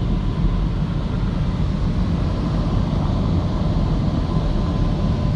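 Tunnel car wash dryer blowers running with a steady rumble of rushing air, heard from inside the car's cabin, with a faint steady whine from the fan motors.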